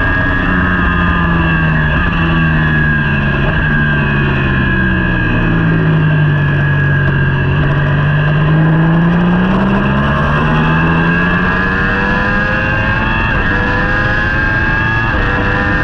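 Superbike racing motorcycle engine running hard, with a steady rush of noise underneath; its pitch falls steadily for several seconds, bottoms out around the middle, then climbs again as the engine speed rises.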